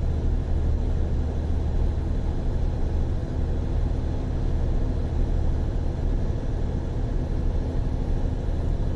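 Freightliner semi-truck's diesel engine running steadily at highway cruise, a constant low drone with road noise, heard from inside the cab.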